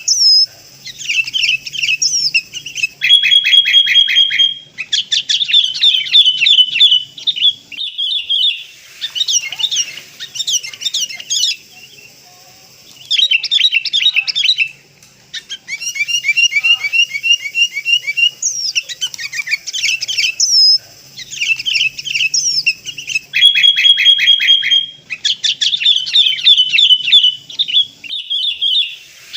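Sooty-headed bulbul (kutilang) calls played as a bird-trapping lure: bursts of fast, sweeping whistled chatter, broken by short pauses. The sequence repeats about halfway through, as a looped recording does.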